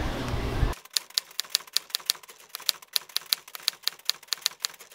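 Typewriter keys clacking in a quick, uneven run of keystrokes, about six a second, as a sound effect for text being typed on; it starts about a second in after a short low rumble of background noise and stops just before the end.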